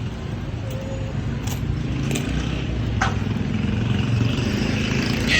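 Steady low rumble of a motor vehicle, growing slightly louder, with a few faint clicks.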